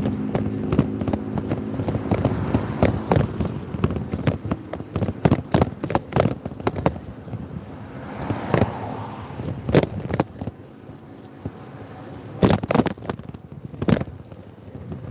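Motorbike ride: the engine note is heard in the first second or so, then gives way to many sharp crackles and knocks over a rushing haze, with wind buffeting the microphone.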